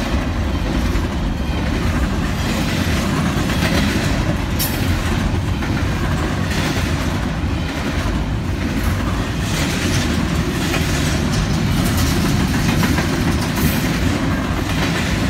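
Norfolk Southern freight train passing fast, its cars giving a steady loud rumble of steel wheels on rail with clickety-clack over the rail joints.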